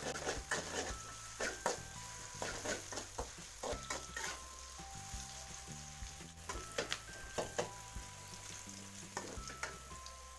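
Sliced shallots, garlic and chilies sizzling in hot oil in a non-stick wok, with irregular scrapes and taps of a metal spatula as they are stirred. A simple melody of background music plays under it.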